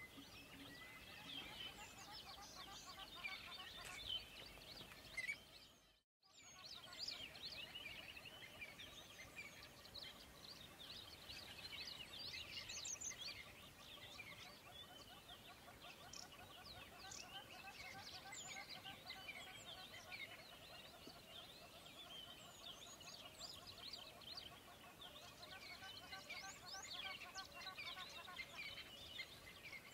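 Faint chorus of small birds chirping and twittering, with many short quick pitch glides. It drops out completely for a moment about six seconds in.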